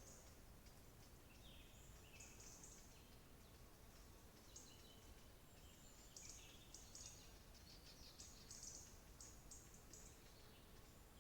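Faint birdsong: short, high chirps and quick trills from small songbirds, coming in scattered runs throughout, over a steady low background hiss.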